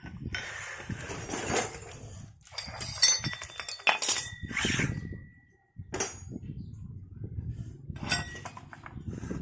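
Metal parts and tools clinking and clattering with several sharp knocks, one of which rings on briefly, as the scooter's CVT pulley assembly is put back together.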